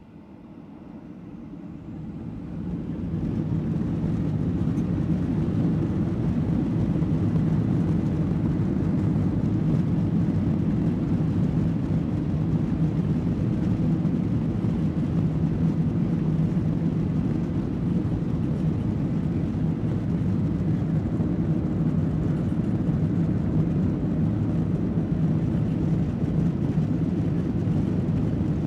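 Boeing 737-800's CFM56 jet engines heard from inside the cabin spooling up to takeoff thrust, rising over the first few seconds, then a loud, steady low engine and runway noise through the takeoff roll.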